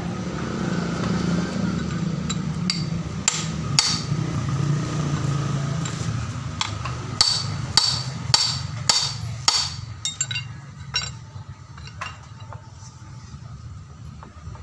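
Sharp metallic hammer strikes: a couple about three seconds in, then a run of five from about seven to nine and a half seconds, with lighter clicks after. They fall on a Hino Ranger truck differential's threaded bearing adjusters, which are being tightened left and right to take out play. A low steady hum sits underneath, fading after the middle.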